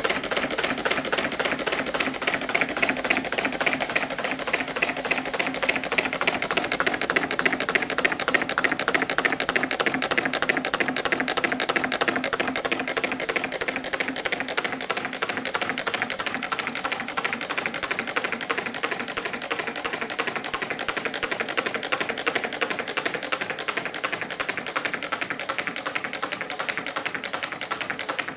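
Meccano-built Stirling engine running, its metal crank, linkages and gears making a rapid, even clatter that grows slightly quieter in the second half.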